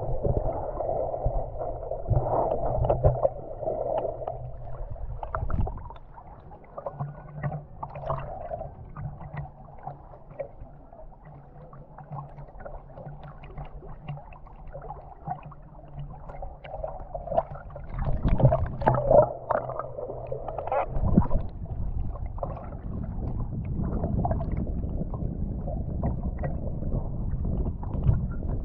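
Muffled sea water sloshing and gurgling around a camera in the water, with a steady low drone underneath. It grows louder near the start and again in the last third.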